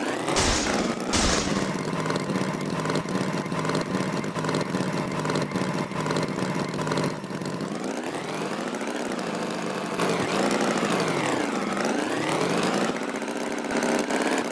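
Tractor engine running steadily, its pitch sweeping up and down a few times in the second half as it revs and eases off, with two short hisses near the start.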